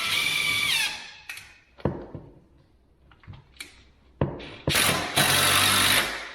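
Power drill driving screws to join cabinet carcasses: the motor runs, winds down in pitch and stops about a second in, followed by small clicks and knocks of handling, then runs again for over a second near the end.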